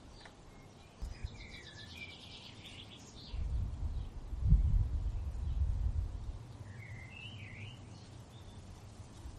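Songbirds singing: a quick run of high notes about a second in and a short warbling phrase around seven seconds. Gusts of wind rumble low from about three seconds in, loudest near the middle, then die down.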